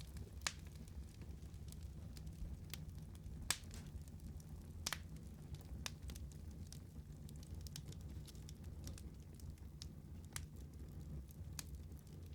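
Wood fire burning in a fireplace: a steady low rumble of the flames with irregular sharp crackles and pops, the loudest pops about half a second and three and a half seconds in.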